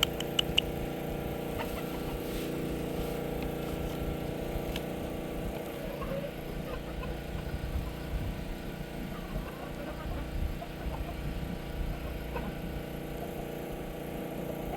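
A steady motor-like hum of several even tones over a low rumble, with a few faint short calls.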